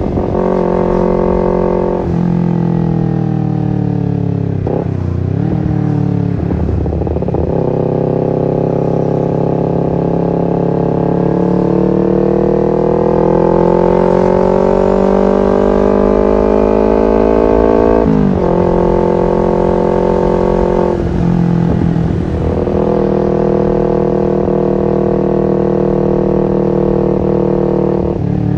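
Kawasaki Ninja 250 FI parallel-twin engine running through an R9 H2 SS aftermarket exhaust while being ridden. Its pitch holds steady, drops suddenly several times as if on gear changes, and climbs slowly for about ten seconds through the middle before a sharp drop near the two-thirds mark.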